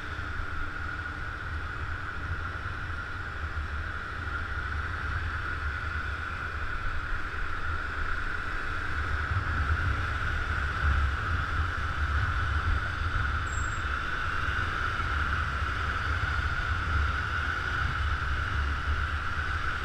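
Motor scooter riding at a steady speed: a constant engine drone under heavy wind buffeting on the microphone.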